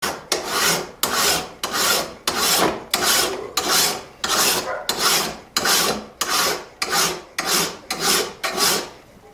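Hand file rasping over steel in regular strokes, about two a second, thinning a machete tang so it fits its handle.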